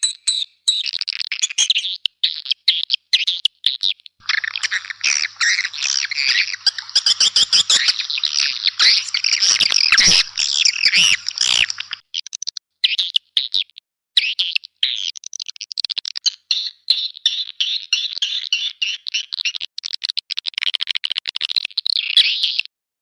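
Swiftlet calls played as a lure recording: a dense, rapid chorus of chirps and twitters, very busy from about four to twelve seconds in. There are brief breaks around twelve and fourteen seconds in, and the sound cuts off suddenly just before the end.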